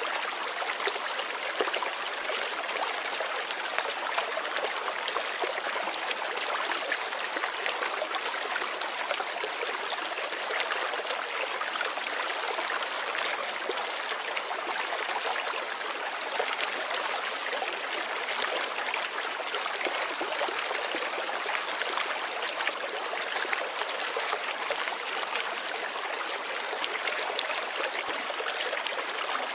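Steady light rain: an even hiss of countless small drops, dense with fine ticks, holding the same level throughout.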